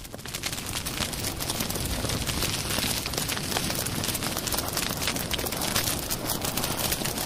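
Small fire burning in the opening at the base of a miniature brick chimney, crackling steadily over a constant hiss.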